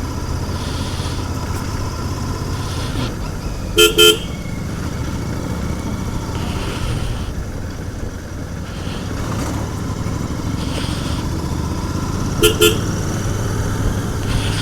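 Royal Enfield Continental GT 650's parallel-twin engine running steadily on the move, with a horn giving two quick short toots about four seconds in and two more near the end.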